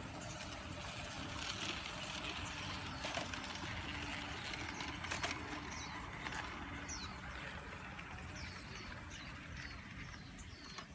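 A train's steady rushing noise, swelling in the middle and then easing off. Small birds chirp several short, high, falling calls in the second half.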